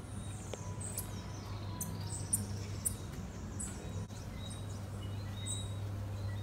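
Small birds chirping and calling in short high notes, over a steady low hum.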